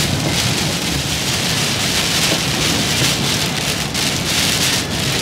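Hurricane rain hitting the windshield and roof of a moving car, heard from inside the cabin, with steady road noise beneath.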